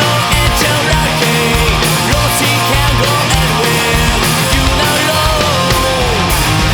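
Melodic punk / hard rock: distorted electric guitars, bass and drums playing a loud, steady instrumental passage.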